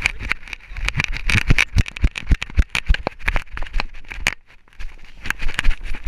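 Dense, irregular knocks and rattles from a GoPro strapped to a running dog, its footfalls jolting the camera over a low rumble, easing briefly a little past four seconds.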